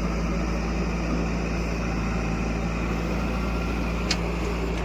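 Heavy diesel engine running steadily at a constant speed, with a short tick about four seconds in.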